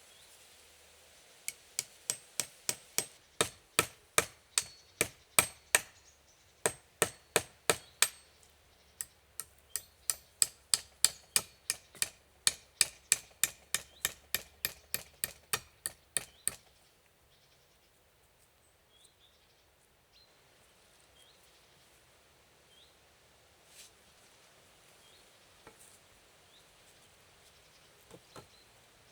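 Hammering: quick, even strikes about two or three a second with a slight ringing, in three runs with short pauses. The strikes grow louder through the first run and stop about sixteen seconds in.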